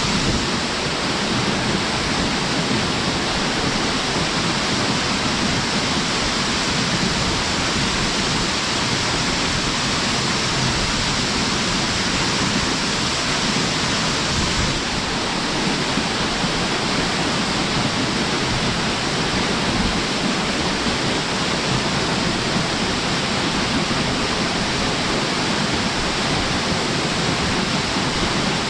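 Odaki waterfall of the Kuroyama Three Falls pouring in a steady, loud rush of falling water.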